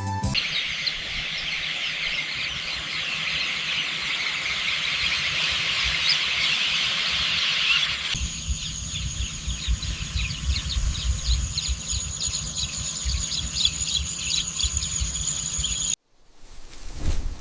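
Outdoor countryside ambience with a dense chorus of chirping birds and insects. About halfway in it changes to a steady high insect whine with rhythmic chirping over a low rumble. It cuts off shortly before the end, and a brief whoosh follows.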